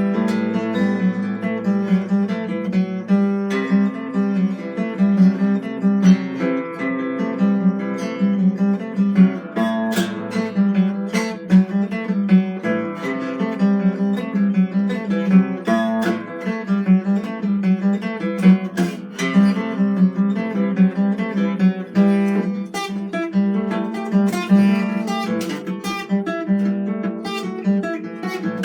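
Acoustic guitar played in an improvised solo, with chords strummed and picked in a continuous flow of notes.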